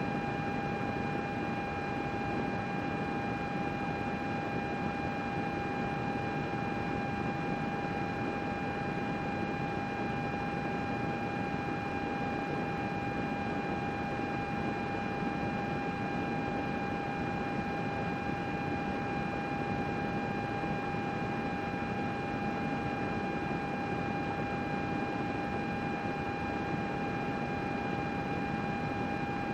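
Computer running: a steady, airy fan noise with a steady high whine over it, unchanging throughout.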